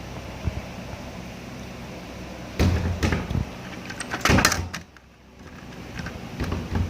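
Knocks and rubbing clatter in two bouts, about two and a half and four seconds in, then a few scattered clicks.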